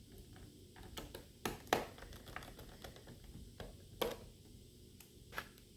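Scattered light clicks and taps, a few sharper than the rest, from small parts and tools being handled during laptop repair work.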